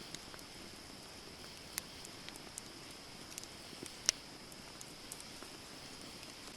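Campfire wood burning and crackling: scattered sharp pops and snaps over a steady hiss, the loudest snap about four seconds in.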